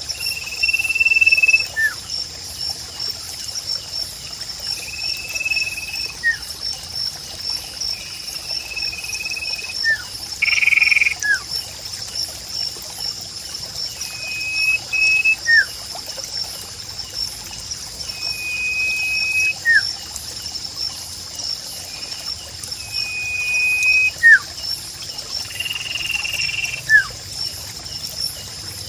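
A bird, the sirpu of the therapy recording, repeats short level whistles every few seconds, each followed by a quick falling note. Under it run a steady, high, pulsing insect-like drone and trickling water.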